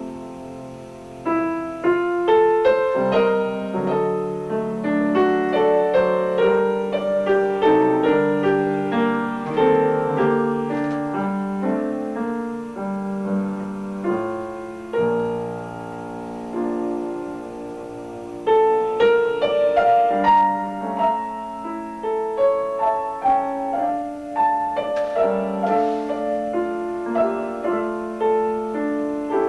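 Piano playing a flowing piece of many notes over chords, growing softer for a moment a little past the middle before picking up again.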